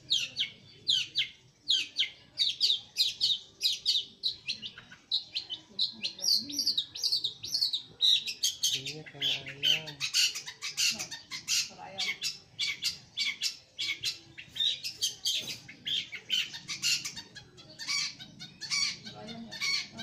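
Caged long-tailed shrike (pentet) singing a long, near-continuous run of rapid, high chattering notes, several a second with hardly a pause.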